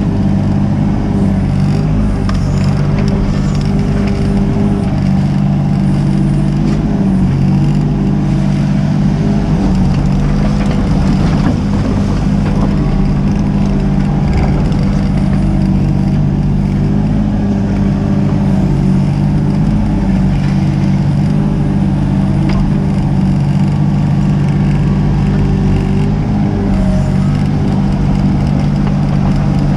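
Mini excavator's diesel engine running steadily at working revs, with light scattered knocks and scrapes.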